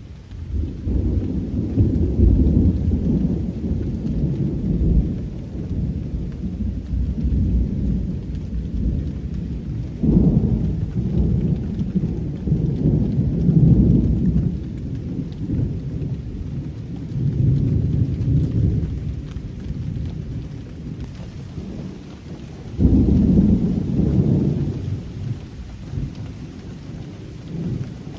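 Thunder rumbling in long rolling peals, swelling and fading several times, with a sudden new peal about three-quarters of the way through, over steady rainfall.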